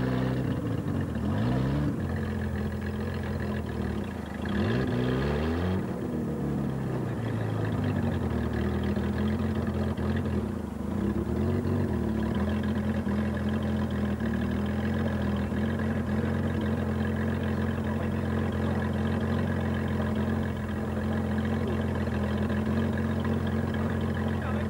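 Engine of an off-road 4x4 stuck nose-down in a muddy ditch, revved up and down a few times in the first several seconds, then running at a steady speed.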